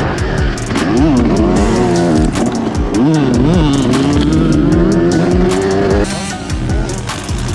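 Dirt bike engine revving hard as the bike is ridden, its pitch rising and falling several times with gear changes and throttle. It then holds a steady high note before dropping off about six seconds in.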